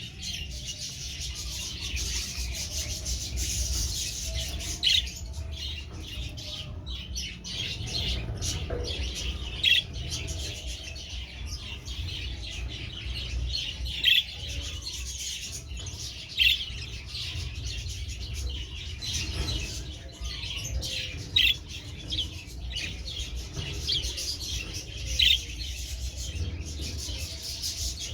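Young budgerigars, about two months old, chattering with constant high chirps, with a louder sharp call breaking through every few seconds.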